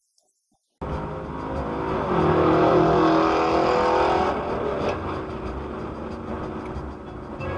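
Car engine running hard, cutting in abruptly just under a second in, loudest for a couple of seconds in the middle and then easing off.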